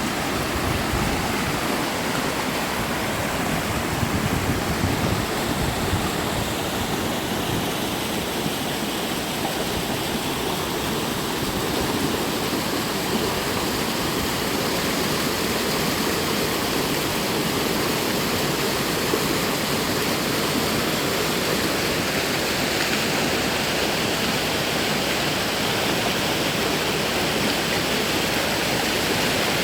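A mountain valley stream rushing steadily, an even, unbroken sound of running water.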